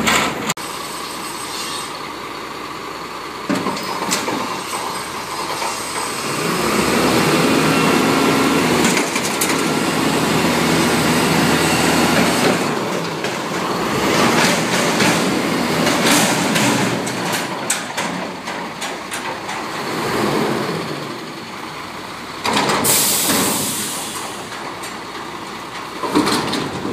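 A garbage truck working at the curb: its diesel engine runs and builds up louder through the middle, with short bursts of hiss, the loudest near the end.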